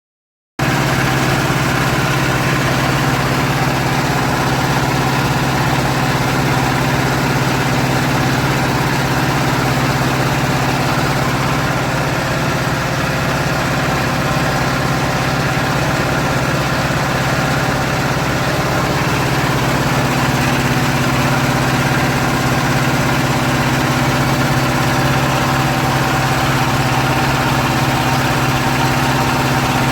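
Hydraulic paving block press's power unit running at a steady pitch, a constant low hum that begins suddenly about half a second in and does not change.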